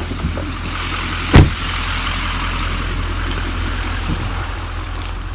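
A vehicle's engine running steadily under an even hiss of rain. One loud thump comes about a second and a half in.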